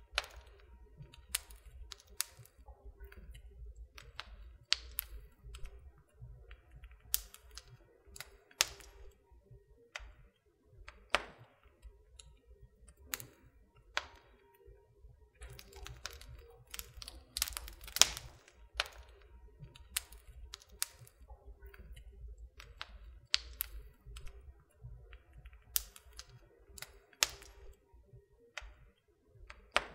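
Wood fire crackling in a fireplace: irregular sharp pops and snaps, a few much louder than the rest, over a faint low rumble of the flames.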